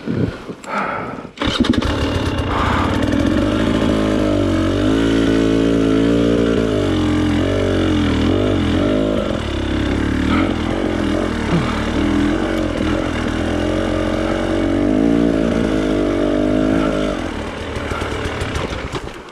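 Off-road trail motorcycle engine catching suddenly about a second and a half in, then running with the revs rising and falling, easing off near the end.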